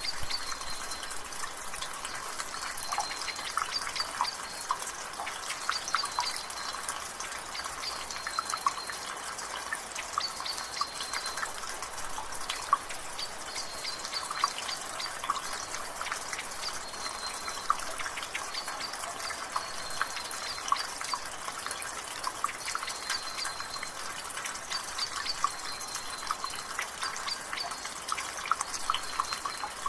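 Water dripping steadily from a gutter, many drips a second, over a light rain hiss. A bird repeats a short high call every two to three seconds.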